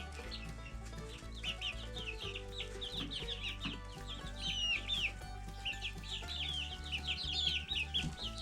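A flock of backyard hens clucking and calling over one another in many short, quick, high notes, with steady background music underneath.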